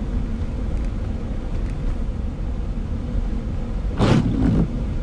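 Steady low rumble of a car's engine and tyres heard from inside the cabin while driving on a slush-covered road, with a brief louder burst about four seconds in.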